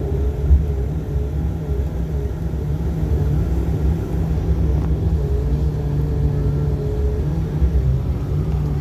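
Dash 8 Q400's turboprop engines and propellers running on the ground before takeoff, heard inside the cabin as a steady low rumble with a slightly wavering hum.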